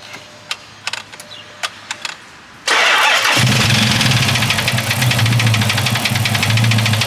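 A few light clicks, then a V8 engine starts about two and a half seconds in and settles into a loud idle with a rapid ticking knock. The engine has run low on oil, and the group takes the knock for a bad lifter.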